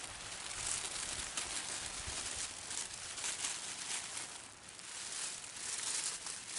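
Crackling and rustling of potting soil and potato plant foliage being handled, a dense run of small crackles and scrapes that eases off briefly about four and a half seconds in.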